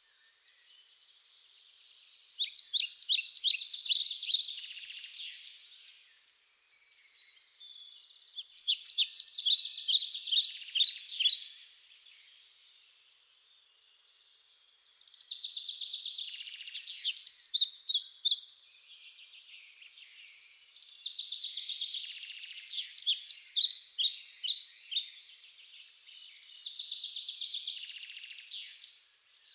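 Songbird singing: about five bouts of rapid, high-pitched chirping trills, each a few seconds long and roughly six seconds apart.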